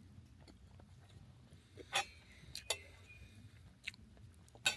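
Eating at a meal: a few short, sharp clicks and taps spaced about a second apart, like utensils against dishes, over a low steady background rumble.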